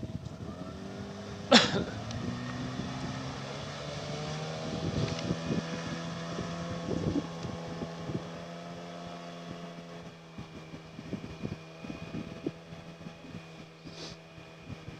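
Boat outboard motor running steadily, its tone getting quieter in the second half, with one sharp loud noise about a second and a half in.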